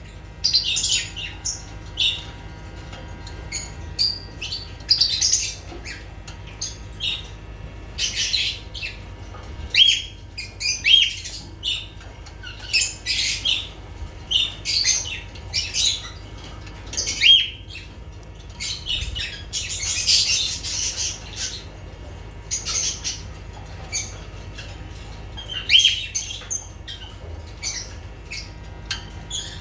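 Lovebirds calling: short, shrill chirps and squawks in irregular bursts, thickening into a run of chatter about two-thirds of the way through.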